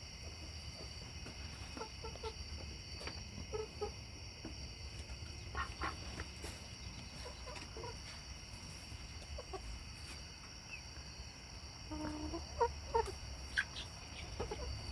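Chickens settling on the roost, making faint, scattered soft clucks, with a few louder clucks near the end.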